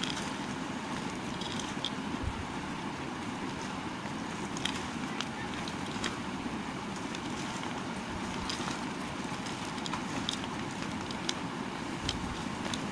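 Knife cutting and scraping a bar of soap: a steady rasping noise with scattered small crackles and clicks.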